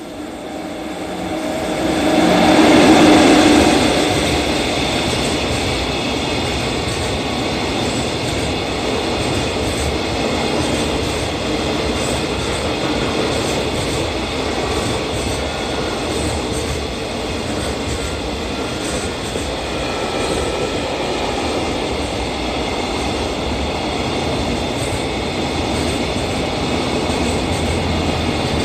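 EF66 electric freight locomotive passing through at speed, loudest about three seconds in, followed by a long string of container wagons rolling past with a steady noise of wheels on rail.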